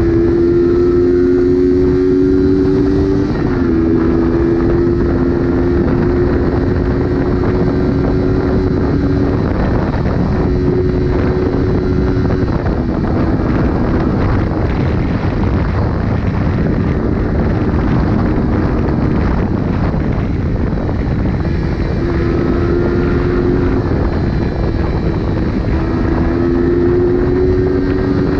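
A 1977 Honda CB125's four-stroke twin-cylinder engine running while the bike is ridden, under heavy wind rushing over the microphone. The engine note rises slowly, drops sharply about three and a half seconds in, fades under the wind in the middle and climbs again near the end.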